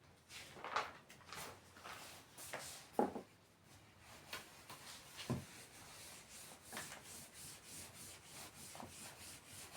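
Faint scratching of a pen writing on paper: a run of short irregular strokes that settles into an even back-and-forth of about two strokes a second in the second half.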